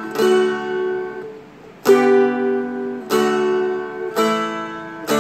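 Seagull Merlin M4 four-string strumstick played with a flatpick: four chords strummed about a second apart, each left to ring out.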